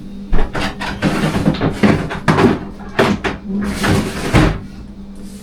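A run of knocks and clatters with rustling, from things being handled and set down, over a steady low hum. It is busiest in the first four and a half seconds.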